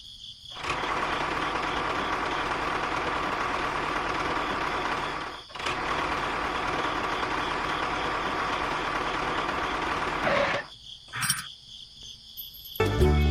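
A small motor whirring steadily in two runs, with a brief break about five and a half seconds in, before it stops near the end.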